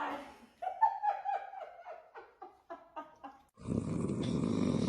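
A dog whimpering: a run of short, high whines that fall in pitch and grow fainter. About three and a half seconds in, a louder, harsh, steady rasping sound takes over.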